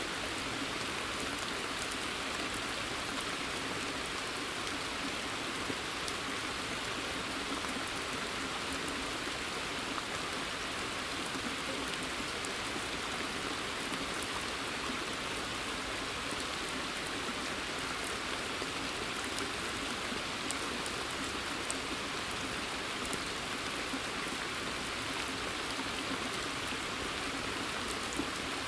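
Steady rain falling on a pond's surface and the surrounding forest, an even hiss with scattered individual drops ticking through it.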